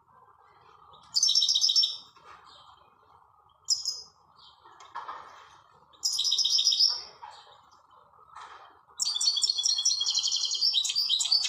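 European goldfinch singing in bursts of rapid, high twittering phrases, with a longer unbroken run near the end. A steady faint hiss runs underneath.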